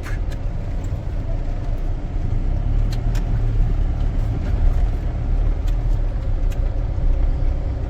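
Mahindra Bolero's engine and running gear heard from inside the cabin: a steady low rumble with a few faint clicks.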